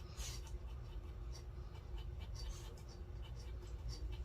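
Drawing strokes scratching on sketchbook paper, a run of short irregular strokes as an area is shaded and detailed, over a steady low hum.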